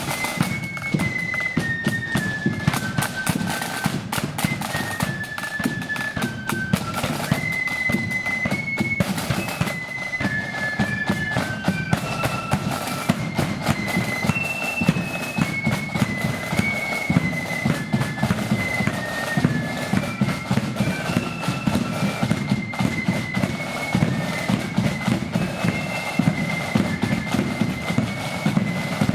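Marching flute band playing a march in unison, a high stepping melody over loud, busy snare and bass drumming.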